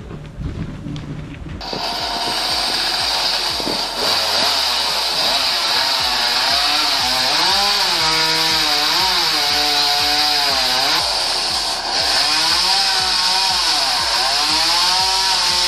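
Chainsaw cutting, starting about a second and a half in. Its engine pitch sags and recovers repeatedly as the chain loads in the wood.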